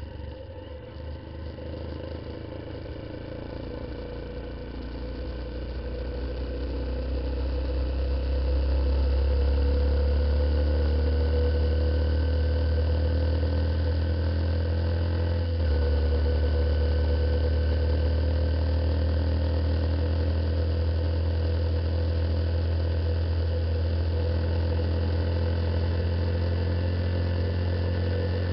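Honda CBF125's single-cylinder four-stroke engine heard on board while riding. It picks up over the first several seconds, then runs steadily, with a short drop in pitch about halfway through at a gear change.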